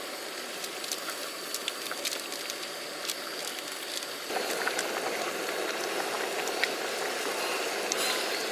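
Food frying on a hot cooking surface: a steady sizzling hiss with scattered small crackles, growing louder about four seconds in.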